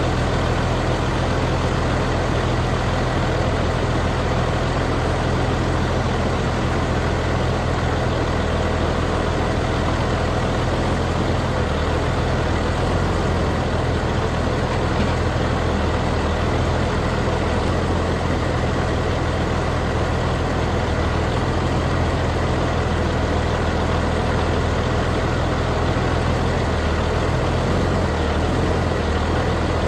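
A large engine idling steadily, a low even hum that stays the same throughout.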